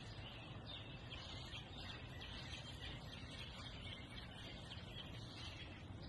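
Small birds chirping over and over in a steady high twitter, over a low constant background noise.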